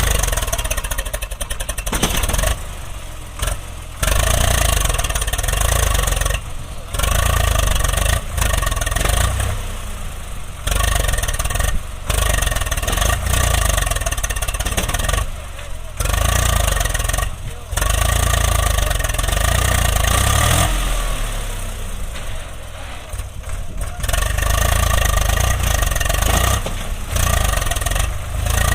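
Diesel engines of a tractor and a backhoe loader running and revving, with the level breaking off and returning several times.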